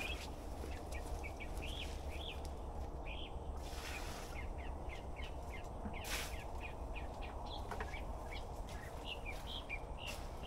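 Small birds chirping outdoors, many short calls one after another. Brief hissing bursts come about four and six seconds in, over a steady low rumble.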